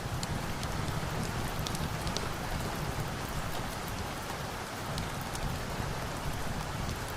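Steady rain falling, with a few sharp crackles of a wood fire scattered through it.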